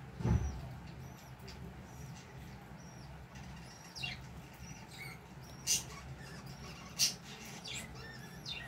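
Small birds chirping in the background, short high chirps repeating throughout. There is a low thud just after the start and two sharp clicks about six and seven seconds in.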